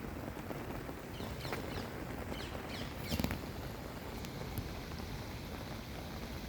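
Small birds chirping in quick runs of short falling notes over a steady background hiss, with a single sharp knock about three seconds in.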